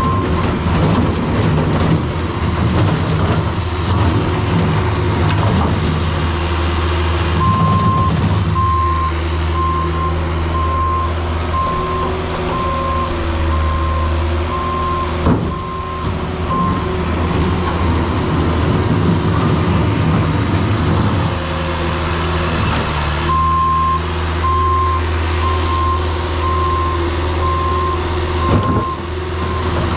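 A heavy vehicle's engine running steadily while its back-up alarm beeps in a steady, evenly spaced, single-pitch series, stopping for a few seconds in the middle and then starting again. Two sharp knocks come through, one about halfway and one near the end.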